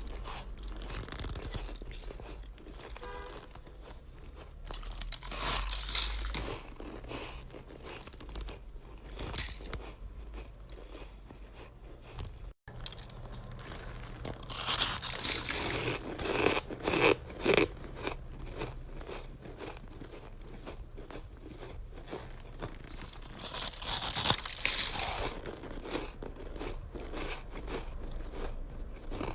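A person biting and chewing chest-freezer frost ice, close to the mouth: dense crisp crunching and crackling, with louder bites about six seconds in, around fifteen to seventeen seconds, and near twenty-five seconds.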